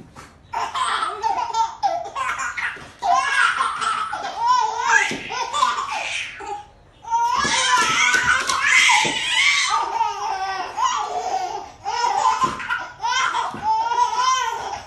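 A baby laughing in long fits of belly laughs, with brief pauses between fits.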